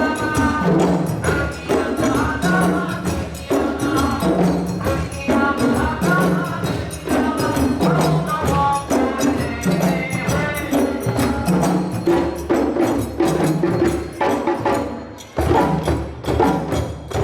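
Live parade music: drums and other hand percussion keep up a fast, steady rhythm while voices sing over it. The singing fades after about ten seconds, there is a short dip about fifteen seconds in, and then the percussion comes back in a dense run of strikes.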